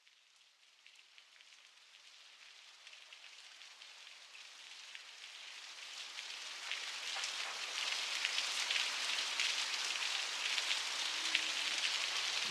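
Rain sound effect fading in at the start of a song, a steady patter of drops growing louder over the first eight seconds. Low sustained music notes come in under it near the end.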